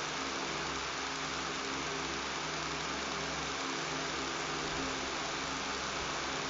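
Electric fan running steadily: an even rush of air over a low motor hum and buzz.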